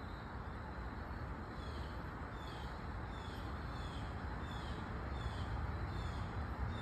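A bird repeating a short, high, downward-sliding chirp about twice a second, starting about one and a half seconds in, over a steady low rumble.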